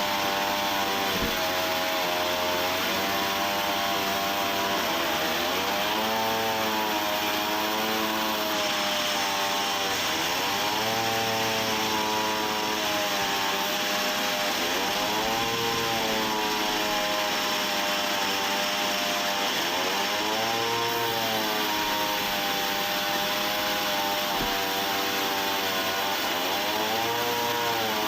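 Sawmill saw running continuously through wood, with a pitched motor hum that sags and recovers about every four to five seconds as it takes the load of the cut, over a steady rasping noise.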